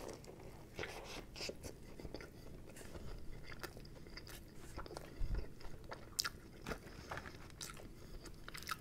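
A bite into a fried chicken sandwich with ranch, then chewing, with scattered small mouth clicks. A low thump a little past halfway.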